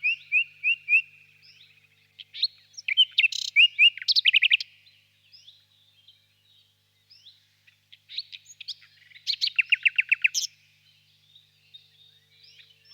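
Nightingale singing loud, separate phrases with pauses between them. One phrase is a run of repeated whistled notes, another is a dense burst of varied notes, and near the end comes a fast rattling trill.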